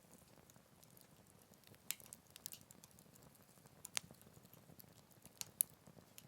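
Wood campfire burning with a low steady hiss, crackling with scattered sharp pops, the loudest about two, four and five and a half seconds in.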